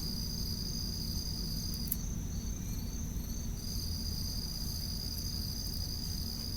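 Night crickets trilling steadily in two high tones. The lower trill breaks into short chirps for a second or so midway, then resumes, over a steady low rumble.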